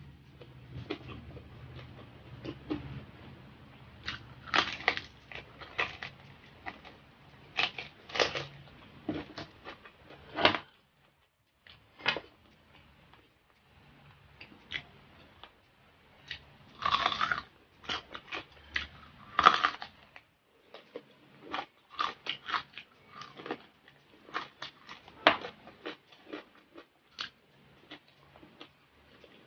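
Close-miked crunching and chewing of crispy fried pork skin: irregular sharp crackles with wet mouth sounds, the loudest crunches coming a little past halfway.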